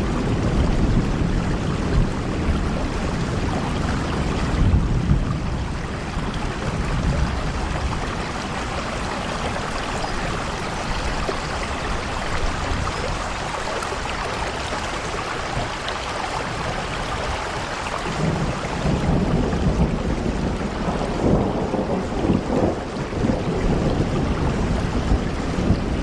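Steady heavy rain with deep rumbles of thunder swelling near the start and again for the last third.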